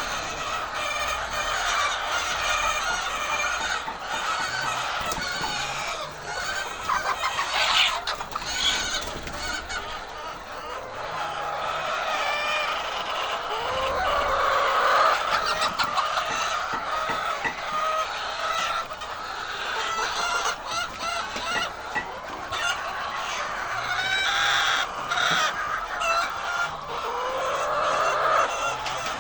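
A flock of chickens clucking and calling, many birds at once with overlapping calls and no pause.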